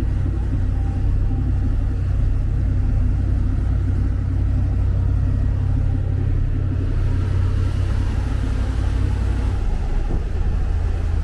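Mercruiser 7.4 L V8 inboard engine of a Sea Ray 370 Sundancer cruiser running steadily under way, a loud, even low rumble.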